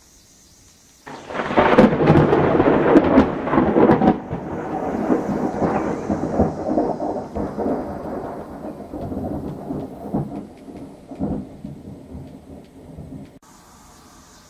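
A thunderclap breaks about a second in with a sharp crackle, then rolls on as a long rumble that fades unevenly with a couple of later swells. It cuts off abruptly near the end.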